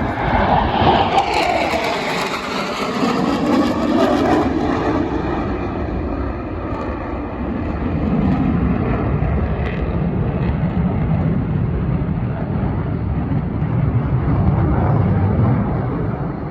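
F-35 Lightning II jet, its single F135 turbofan engine heard as it flies past at speed. The engine's pitch falls over the first few seconds as it passes, then gives way to a steady low rumble as it moves away.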